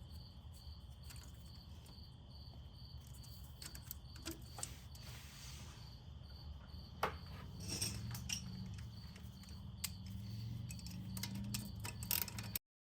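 Faint scattered clicks and light metal handling noise from fitting brake-line bracket clips by hand, over a low steady hum and a faint high chirp that pulses about two to three times a second.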